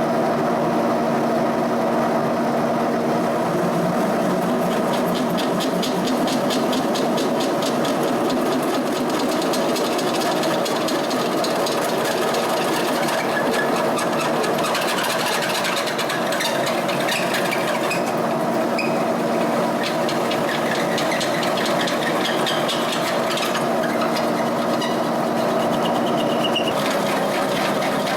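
Milling machine running as a drill bit cuts a cross-bore hole through a workpiece: a steady motor hum with fast, even ticking from the cut.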